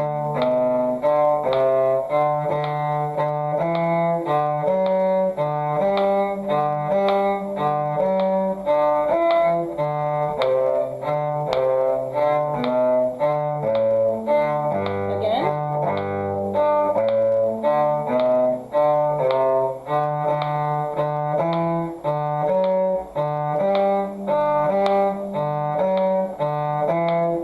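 Bowed string instrument playing a one-octave G major scale as a warm-up, each scale note followed by a short D, in a long-short rhythm over a steady metronome click.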